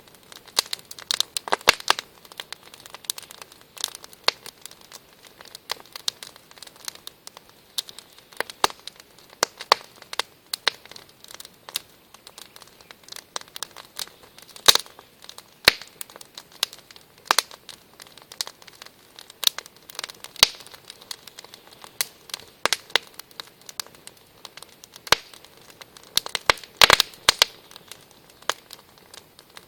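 Wood fire burning, with irregular sharp crackles and pops over a soft hiss; louder clusters of pops come about a second in, around the middle and near the end.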